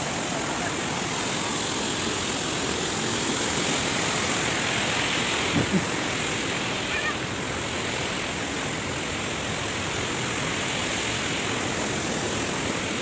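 Waterfall: water falling from a great height, a steady rushing noise. A couple of brief knocks come about six seconds in.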